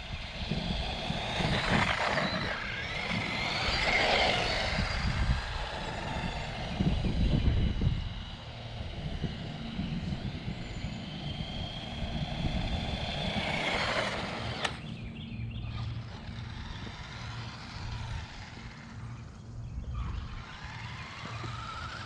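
Motor of a 1:18-scale electric RC monster truck whining, rising and falling in pitch as it speeds up and slows several times, over a low rumble.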